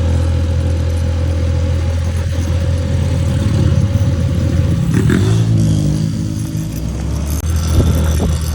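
Motor scooter engine running while riding, a steady low drone whose note shifts about five seconds in.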